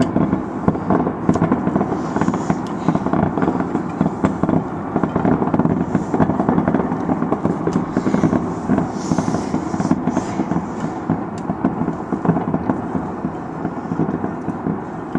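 Fireworks and firecracker strings going off in a dense, continuous crackle of rapid bangs.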